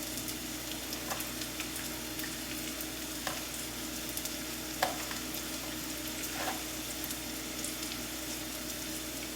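Steady sizzle of peppers sauteing in a skillet, with a few faint clicks here and there.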